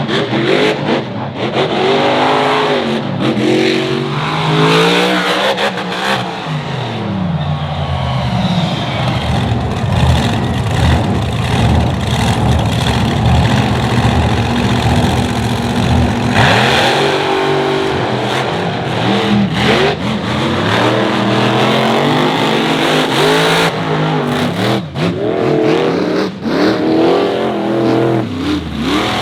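Monster truck engine running hard and revving, its pitch climbing and dropping again and again as the throttle is worked.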